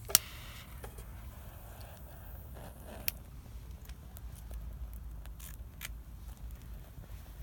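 Wood campfire crackling, with sharp pops: a loud one just after the start and another about three seconds in, then several smaller snaps.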